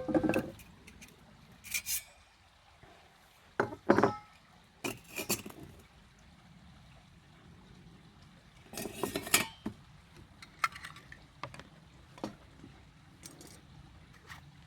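Metal camp cookware and alcohol stove parts being handled and set up, giving irregular clinks and knocks, with a busier cluster about nine seconds in.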